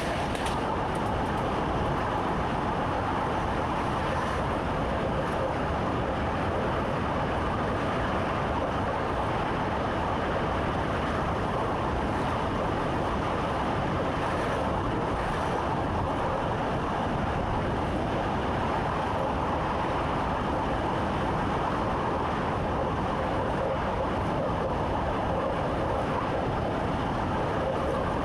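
Electric commuter train running steadily, a constant rumble of wheels on rails and running gear heard from inside the driver's cab.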